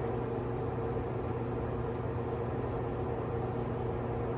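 Steady low hum with a few faint held tones above it, unchanging throughout.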